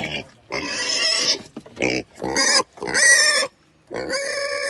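Pig squealing in a run of five or six short, high-pitched calls with brief pauses between them.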